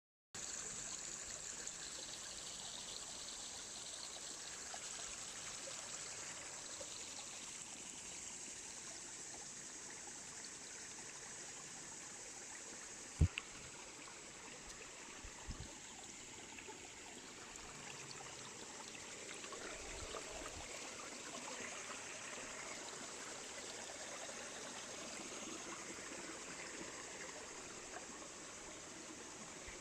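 Steady trickle of running water, with one sharp thump about thirteen seconds in and a couple of soft knocks shortly after.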